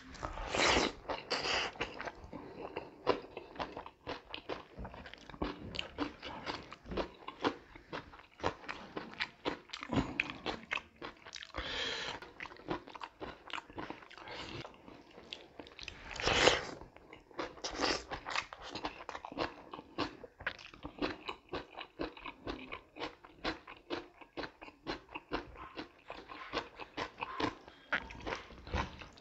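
Close-miked eating by hand: continuous wet chewing and lip-smacking with crunchy bites of salad and food. There are a few louder crunches about a second in and again around twelve and sixteen seconds in.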